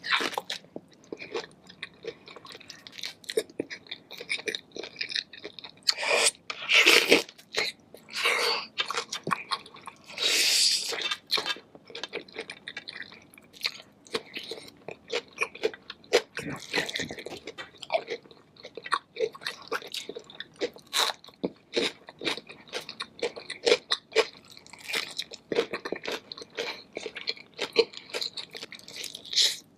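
Close-miked chewing of crunchy food: a dense, irregular run of sharp crunches and mouth sounds, with a few louder bites.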